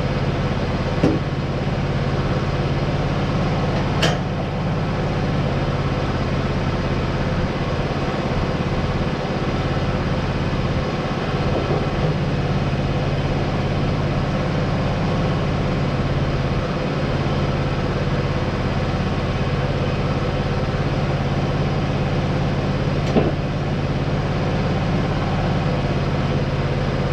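An engine idling steadily, with a few short metallic knocks about a second in, around four seconds in and near the end.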